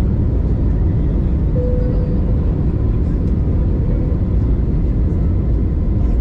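Airbus A320 engine and airflow noise heard inside the cabin: a steady low rumble, with a faint thin whine for about a second and a half, starting a second and a half in.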